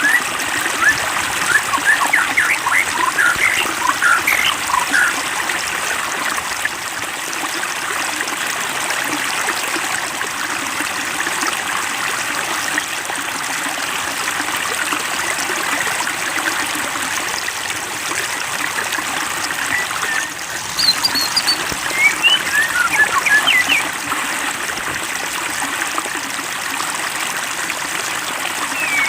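Water trickling and bubbling steadily, with clusters of short high plinks in the first few seconds and again about two-thirds of the way through.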